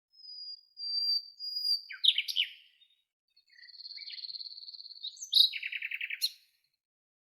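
Songbird singing with no other sound behind it. A long, thin high note leads into a few quick falling notes, then a rapid high trill, then a lower buzzy trill that stops a second before the end.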